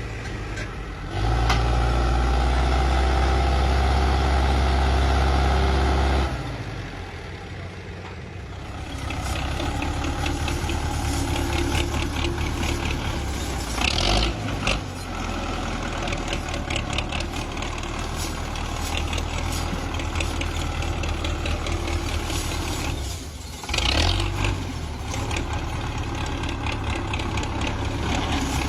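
Belarus tractor's diesel engine running. It is louder and steady for the first few seconds, drops off about six seconds in, then runs on with a fast clatter. Two brief sharp surges come, one about halfway and one near the end.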